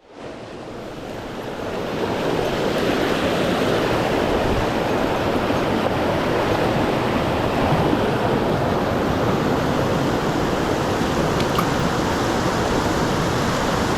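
Mountain stream water rushing steadily over rocks. It cuts in from silence at the start and swells up over the first couple of seconds.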